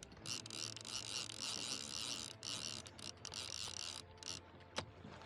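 Spinning reel's drag buzzing in spurts as a hooked fish strips line, stopping and starting several times, with one sharp click near the end.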